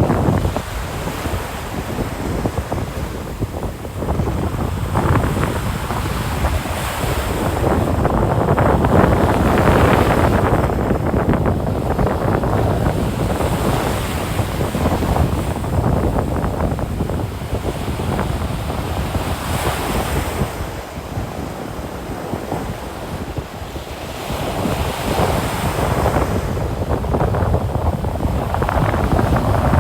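Ocean surf breaking and washing up on the beach, swelling and easing as each wave comes in, with wind rumbling on the microphone.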